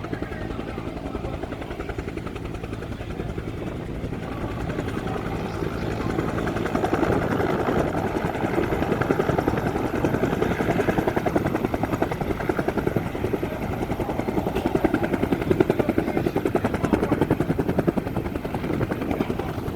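A two-bladed Bell military helicopter's rotor beats rapidly and evenly over the turbine. It grows louder over the first several seconds, then holds steady and loud.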